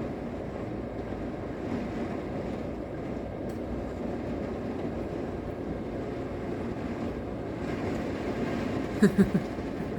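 Thunderstorm wind and wind-driven rain against a hotel window, heard from inside the room as a steady low noise. Two brief louder sounds come about nine seconds in.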